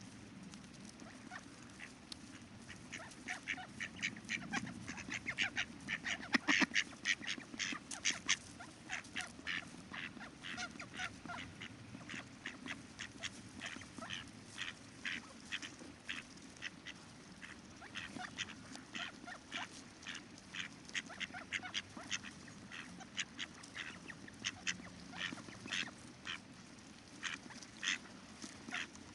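Ducks calling in many quick, short notes, busiest about six to nine seconds in, over the steady low rush of river water.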